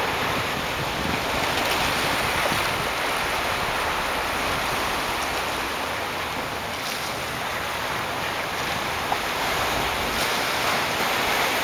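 Ocean water washing steadily against shoreline rocks, not crashing, with some wind on the microphone.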